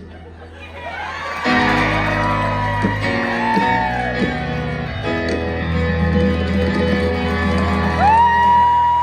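Live band music in a hall, swelling about one and a half seconds in, with audience members whooping and shouting over it.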